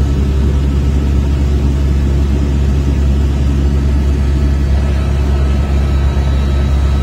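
Helicopter engine and rotor noise: a loud, steady low drone with a fast flutter.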